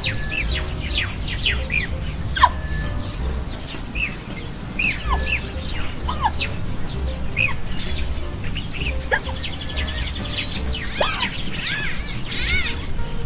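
Several birds chirping and calling at once, a busy mix of short notes that rise and fall in pitch, over a steady low rumble.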